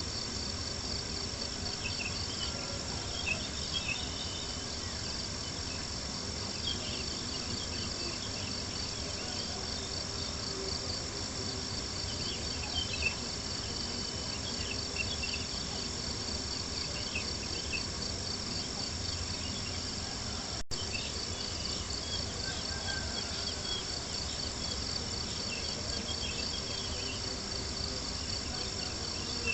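Crickets chirping in a steady, pulsing chorus over a crackling campfire, with scattered small pops and a low, even hiss beneath. The sound cuts out for an instant about two-thirds of the way through.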